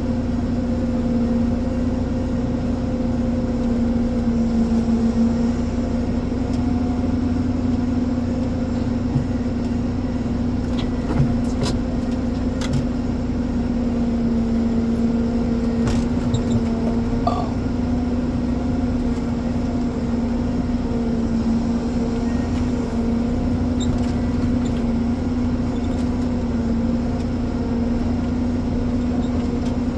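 Ponsse Elephant forwarder's diesel engine running steadily with an even hum, and a few short knocks and clicks from the machine roughly halfway through.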